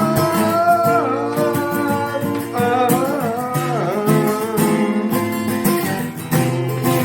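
Music: an acoustic guitar strummed in an instrumental break of a worship song, with a wordless melody line that glides and bends in pitch during the first second and again about three seconds in.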